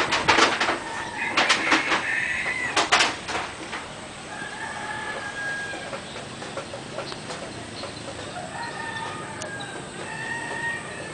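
Chickens calling: a burst of sharp clucks and squawks in the first few seconds, then long drawn-out calls like a rooster crowing about four seconds in and again near the end.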